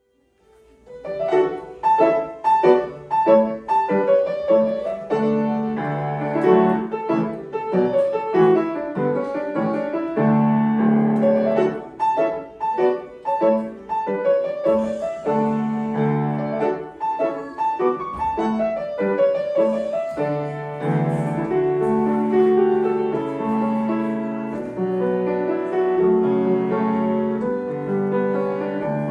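Solo piano playing a lively piece, the notes struck in quick, detached runs and chords, starting about a second in.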